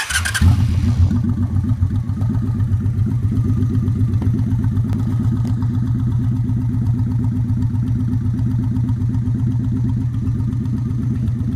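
Motorcycle engine running steadily at idle, with an even pulsing beat. There is a brief rush of noise in the first second.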